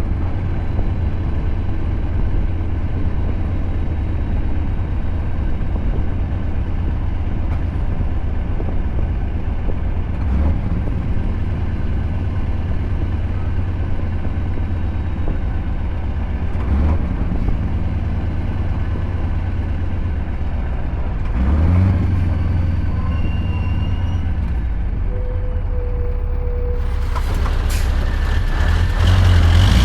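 Scania R580 V8 truck engine with a straight-piped exhaust running steadily under way as a deep drone, with brief swells in revs a few times and rising revs near the end.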